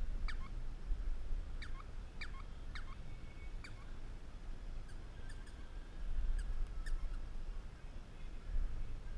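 A bird calling repeatedly in short, quick downward-sweeping chirps, a dozen or so at irregular intervals, over a constant low rumble of wind and handling noise on the dog-mounted camera's microphone.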